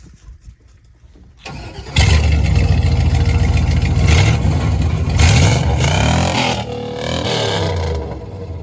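A pickup truck's engine is cranked briefly and catches, runs loudly while being revved up and down several times, then drops back toward idle near the end.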